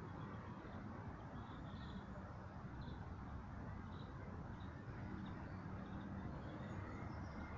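Faint, short bird chirps, roughly one a second, over a steady low background rumble.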